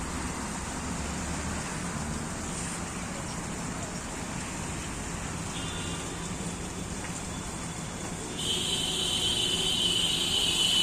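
Steady outdoor background rumble like distant traffic, joined about eight seconds in by a loud, shrill, high-pitched screech that holds for a couple of seconds.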